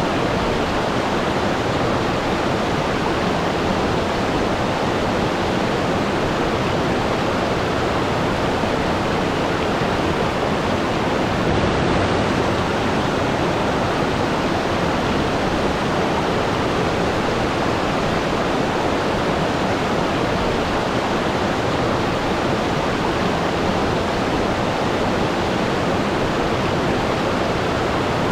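Waterfall: water falling and splashing as a steady, even rush with no break or change.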